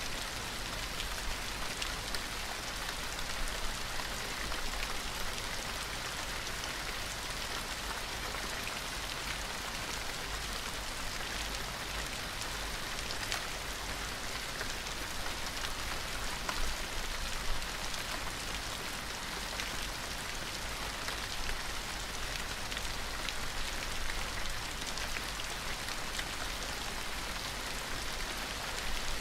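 Steady rain falling: a dense, even hiss of water with many small drop ticks scattered through it.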